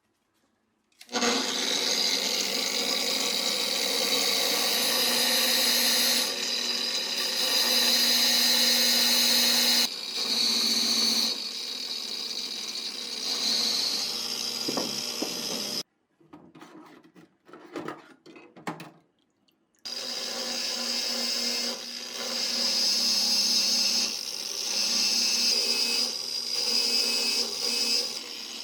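A handheld power tool running on a part of an MG-81 machine gun under restoration, in two long spells. It stops for a few seconds around the middle, where a few light clicks and knocks are heard.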